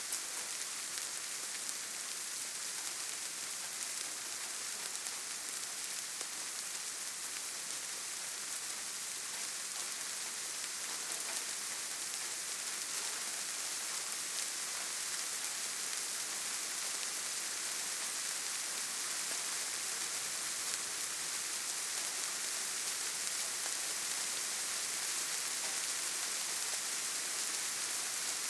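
Steady forest rain falling, an even bright hiss of rainfall that holds level throughout, with no thunder or other distinct sounds.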